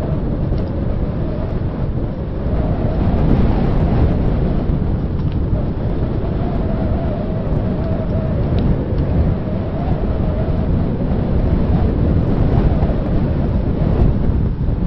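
Wind buffeting the microphone of a handheld recorder on a moving bicycle: a steady low rumble, with a faint wavering whistle over it.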